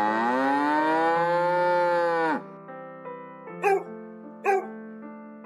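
A cow's long moo, its pitch rising and then falling away, ending a little over two seconds in, over soft piano music. Then two short barks from a small dog, under a second apart.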